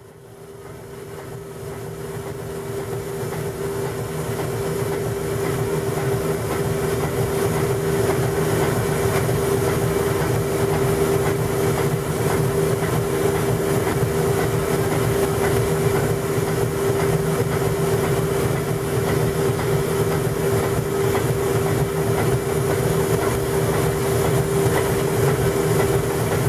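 Steam-tug machinery running steadily: a continuous hum with a steady whine over a steady hiss, fading in over the first few seconds.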